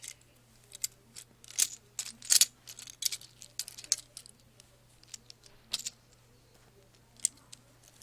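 Loose plastic Lego bricks clicking and rattling as they are handled. There is a dense cluster of sharp clicks in the first half, then a few single clicks.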